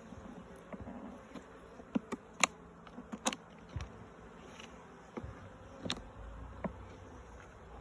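Honey bees buzzing around an open hive, with several sharp clicks and knocks of hive parts being handled, the loudest two about two and a half and three and a half seconds in.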